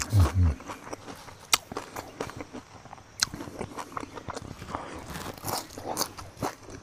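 Close-up crunching and chewing of crispy fried grasshoppers, with irregular crackly clicks as they are bitten. A brief falling hum opens it.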